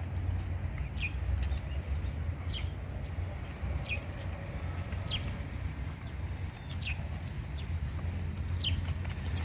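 A bird calling over and over, one short downward-sliding chirp roughly every second, over a steady low rumble.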